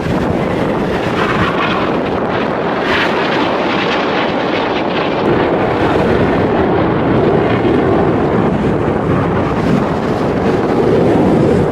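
Aircraft engine noise at an air display, a steady loud rush without clear rises or falls, mixed with wind buffeting the microphone.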